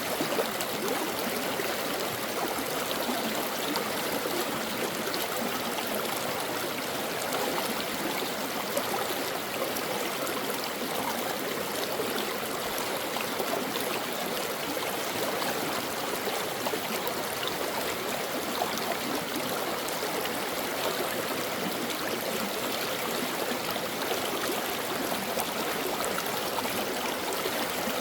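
Small stream flowing over rocks: a steady rushing and babbling of water with constant small trickles and splashes.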